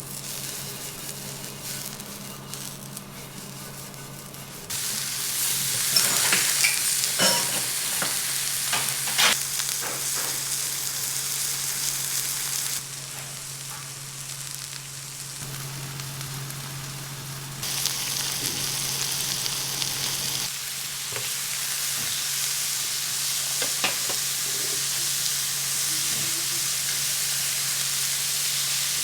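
Steady sizzling hiss with scattered crackles and pops. The level steps up or down abruptly a few times.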